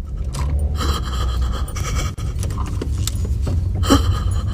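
Car cabin noise on the move: a steady low road rumble with a few sharp clicks and rattles.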